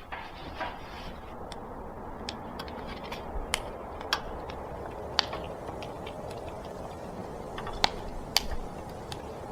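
Irregular sharp clicks and pops, a dozen or so, the loudest about five and eight seconds in, over a steady hiss.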